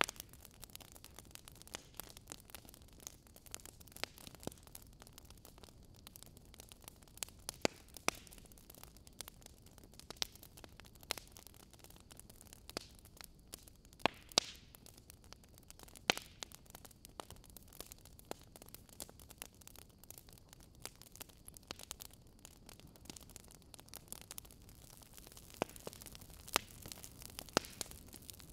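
Fire crackling in a fireplace: irregular sharp pops and snaps over a soft hiss.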